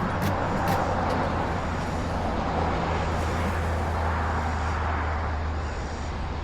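An engine running steadily with a constant low drone, and a few sharp clicks about half a second apart at the start.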